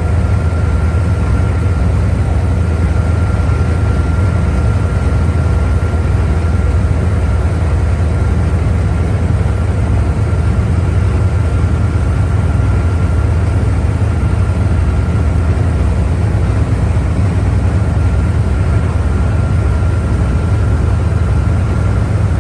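A boat's engine running steadily with a low rumble, heard from on board, with a faint steady whine above it.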